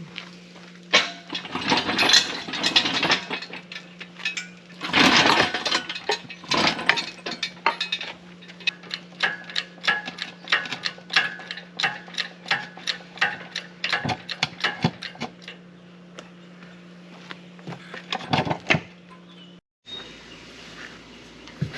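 Shop work on a manual transmission: rapid metallic clicks and clanks of hand tools, with two short stretches of rushing noise, over a steady low mechanical hum.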